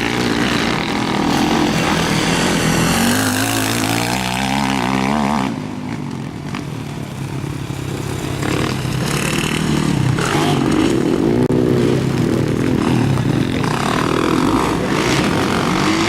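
Motocross motorcycle engines revving hard on the track, pitch rising and falling through the gears. One rev climbs and cuts off suddenly about five seconds in, as the throttle is shut, before the engines rev up loudly again.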